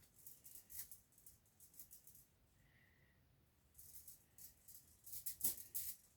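Faint rustling and light rattling from hands handling parts: a run of short scrapes, a quiet pause in the middle, then more of them near the end.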